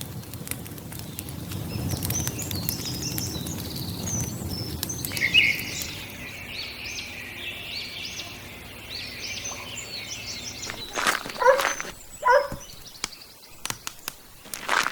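Small birds chirping and twittering over a low background rumble. A little after ten seconds in, two short, louder sounds stand out, followed by scattered clicks near the end.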